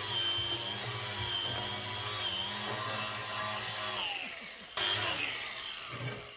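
Power-driven wire wheel brush grinding rust and baked-on crud off a cast iron skillet. It runs steadily, winds down about four seconds in, starts again a moment later, and stops just before the end.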